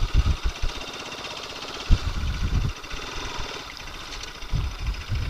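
Motorcycle engine running at low speed under a steady hiss, with irregular low rumbles from wind buffeting the microphone three times.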